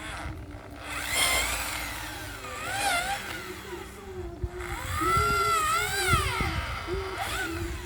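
An electric power tool's motor running in spells, its whine rising and falling in pitch three times as the tool speeds up and slows down.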